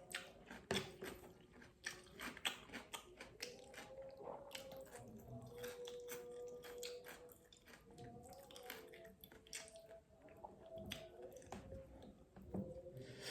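A person chewing food close to the microphone, with frequent wet smacks and clicks of the mouth.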